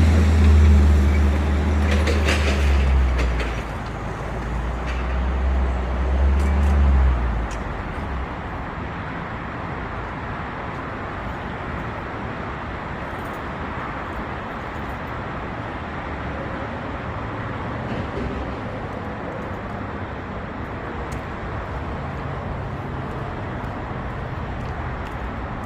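A heavy vehicle's engine runs loudly for about seven seconds, then drops away, leaving a steady low rumble of yard and traffic noise.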